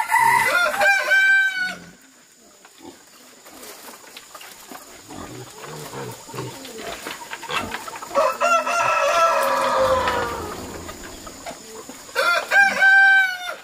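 Rooster crowing three times: once at the start, a longer crow trailing down in pitch about eight seconds in, and again near the end.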